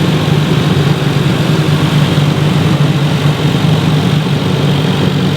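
JZ-swapped car's Toyota inline-six engine idling steadily, a loud, even low hum.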